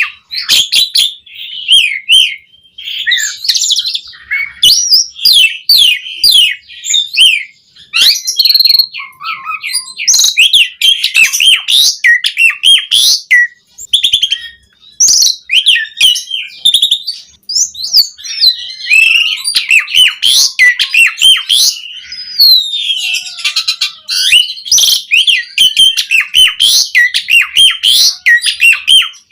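Pied starling (jalak suren) singing vigorously: a fast, varied stream of whistles, chattering notes and clicks, broken by a few short pauses.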